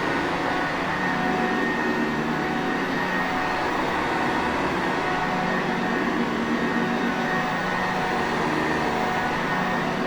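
Sanitaire vacuum cleaner running steadily: an even whooshing rush of air with a faint constant motor hum and whine.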